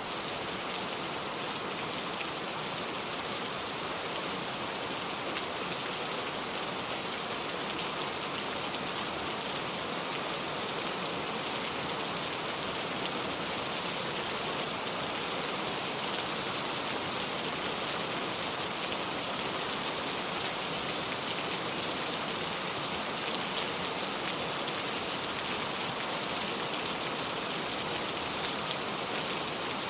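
Heavy rain pouring steadily, an even hiss with many fine drop ticks.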